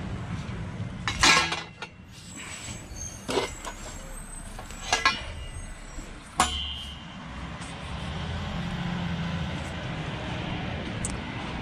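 Scrap being handled and loaded, clanking in four sharp knocks with a ringing tail, over the steady low rumble of an engine running.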